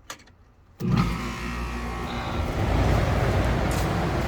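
A single click, then just under a second in a Lennox ACX13 3.5-ton central air conditioner's outdoor unit starts suddenly, its compressor and condenser fan running with a steady low hum and a rush of air that grows a little louder. This is its first start of the cooling season.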